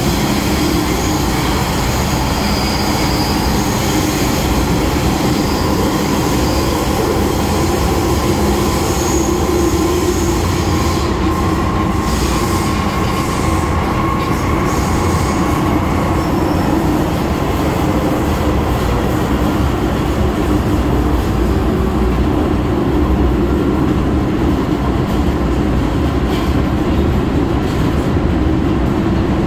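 MTR Kwun Tong line M-Train running between stations: a steady, loud rumble of wheels on rail with thin whining tones over it, one tone rising slightly about halfway through.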